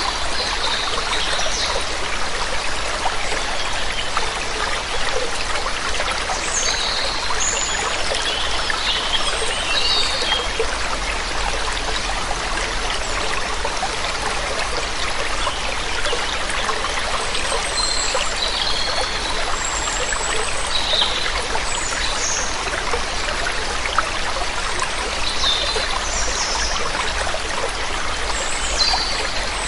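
Waterfall water splashing steadily, with birds chirping in short calls every few seconds.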